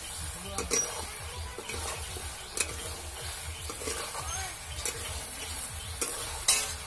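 Chicken frying and sizzling in a black wok while it is stirred with a metal spatula, the spatula scraping and clinking against the pan a few times, the loudest clink near the end.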